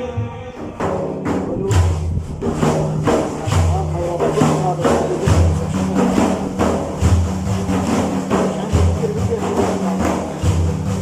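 Frame drums (daf) playing a steady rhythm of deep strokes and sharp jingling slaps between sung verses, coming in about a second in, with a held low note underneath.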